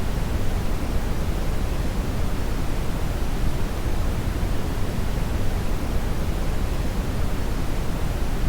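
Steady synthetic brown (red) noise: an even, deep rushing hiss, strongest in the bass and falling off toward the treble, with no change or events.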